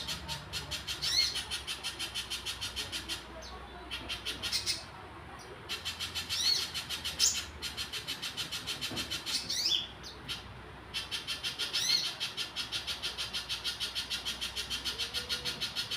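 A spiderhunter calling: a long run of rapid, evenly repeated high notes, about four or five a second, broken by a few short pauses, with several louder sweeping notes standing out.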